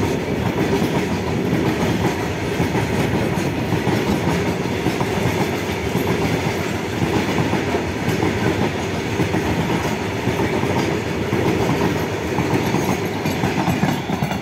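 Freight train of covered goods wagons rolling past close by, a steady, loud rumble and clatter of steel wheels on the rails.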